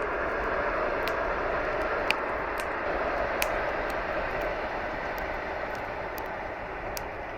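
Electric commuter train passing at a distance: a steady rushing noise that slowly fades toward the end.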